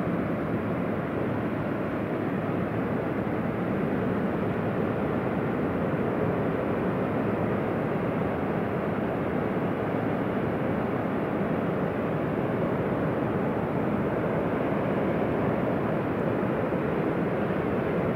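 Ocean surf breaking on a sandy beach: a steady rushing noise with no separate wave crashes standing out.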